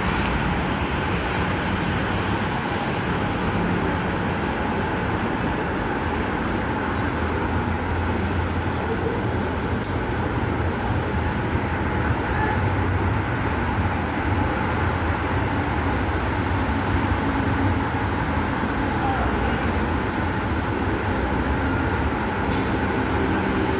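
Metro train running, a steady rumble and rolling noise as heard from inside the car.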